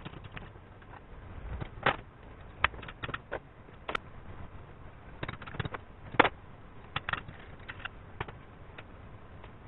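Irregular clicks and knocks of tools and parts being handled during motorcycle assembly, with two louder knocks about two and six seconds in.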